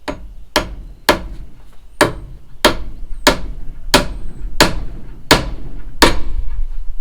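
Hammer striking repeatedly, about ten sharp blows at a steady pace of roughly one and a half a second.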